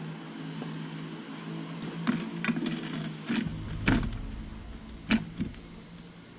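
A steady low mechanical hum, with several sharp knocks and scrapes of metal tools; the loudest knock comes about four seconds in, over a brief low rumble.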